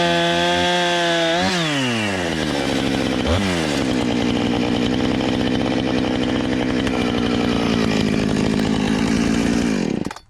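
Two-stroke gas chainsaw at full throttle. Its pitch drops as it loads into the wood, then it runs lower and steady, cutting through the dead log for several seconds. The engine cuts off abruptly near the end.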